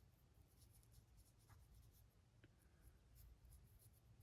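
Near silence with faint, light scratching and ticking of a paintbrush working black paint onto a 3D-printed model.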